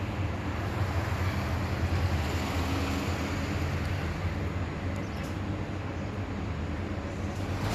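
A vehicle running on the move, a steady engine hum under road noise, with a short knock or bump right at the end.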